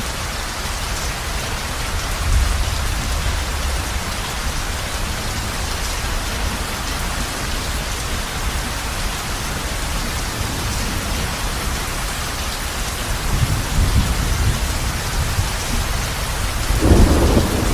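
Heavy rain falling steadily on a roof, with low rumbles of thunder swelling a few times, the loudest beginning near the end.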